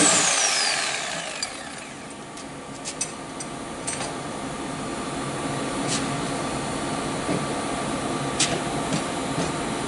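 A high-speed power tool spinning down, its whine falling in pitch and fading over the first second or so. After that come scattered light clicks and knocks over a faint steady hum.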